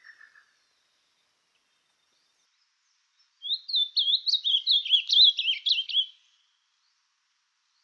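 A songbird singing one quick, varied phrase of high, looping whistled notes that swoop up and down, lasting about two and a half seconds and starting about three and a half seconds in.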